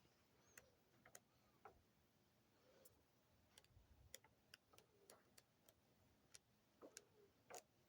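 Near silence with faint, irregularly spaced small clicks and ticks, the strongest near the end.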